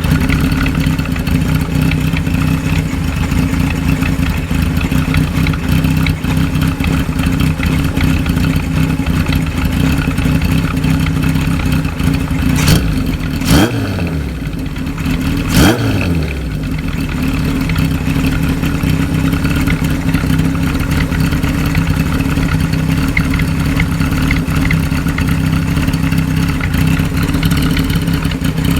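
Motorcycle exhaust through a BEET-type steel-pipe muffler with an S322 baffle, idling with a popping, clattery note. The throttle is blipped three times around the middle, and each time the revs fall back to idle.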